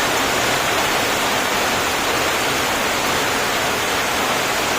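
Heavy downpour drumming steadily on a tin roof, a dense, even hiss of rain.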